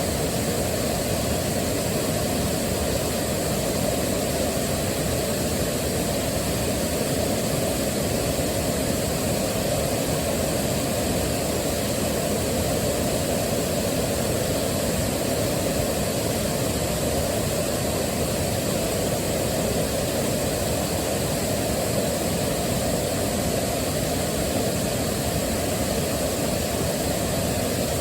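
Waterfall: a steady, unbroken rush of falling water, heavier in the low and middle range than in the hiss above.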